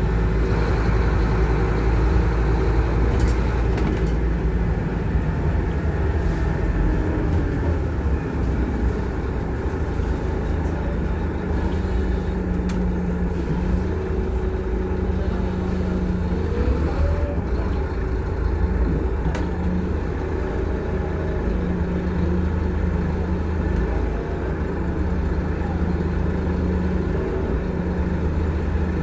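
Scania K230UB bus's five-cylinder diesel engine running under way, heard from inside the passenger saloon over steady road noise. The engine note changes pitch several times as the bus pulls away and changes gear.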